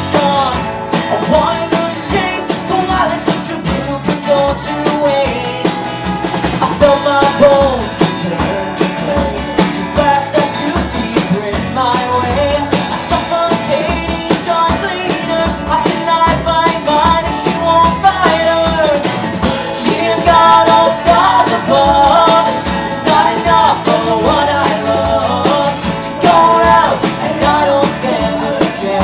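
Small rock band playing live: guitars, bass and drum kit, with a sung melody over them.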